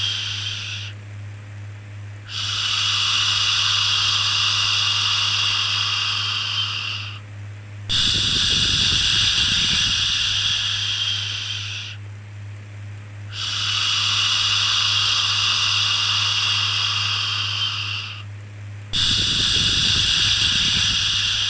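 Long soothing 'shhh' shushing sounds, each held for about four to five seconds and repeated after a short break of about a second. A steady low hum runs underneath.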